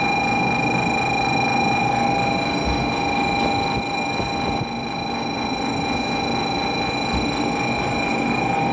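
Shinkansen platform departure bell ringing continuously on one steady tone over station crowd noise, signalling that the train is about to close its doors and leave.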